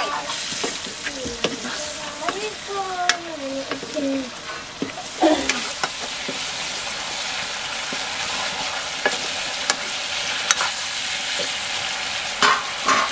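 Buffalo meat curry sizzling and frying in a metal wok, stirred with a steel ladle that scrapes and clinks against the pan now and then over a steady hiss.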